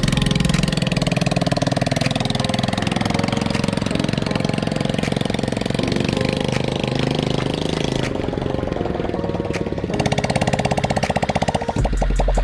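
Motorcycle engine fitted in a homemade mini jeep, running with a fast, even firing beat.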